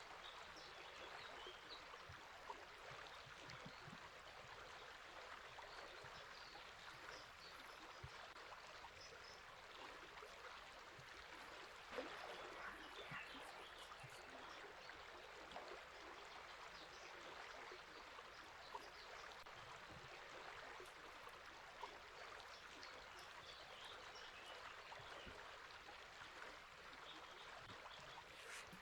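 River water flowing steadily, faint, with scattered short bird chirps over it.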